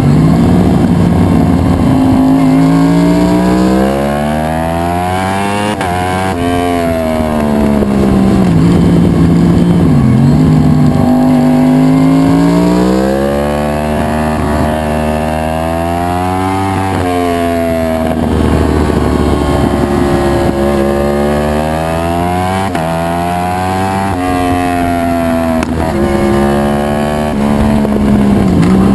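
2011 Yamaha R1's fully built crossplane inline-four engine running loud, its revs repeatedly rising and falling every few seconds.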